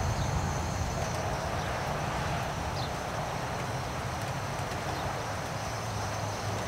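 Light rain falling steadily as an even hiss, over a low rumble of wind gusting on the microphone, with a few faint drip ticks.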